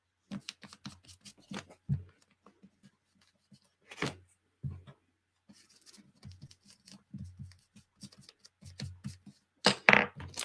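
Ink being dabbed and rubbed onto paper around the edges of a cut piece held on a journal page: an irregular run of soft taps and scuffs, several a second, with a few louder strokes near the end.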